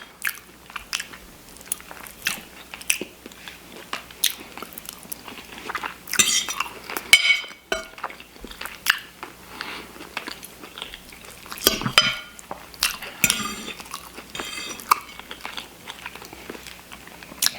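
Close-miked eating of shepherd's pie: a fork clinking and scraping on the dish, with chewing and wet mouth sounds in irregular bursts.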